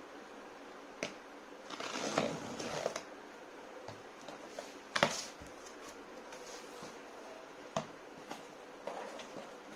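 Cardboard box and packaging being handled: a stretch of rustling and scraping about two seconds in, a fainter rustle near the end, and a few sharp clicks or knocks, the loudest about halfway through.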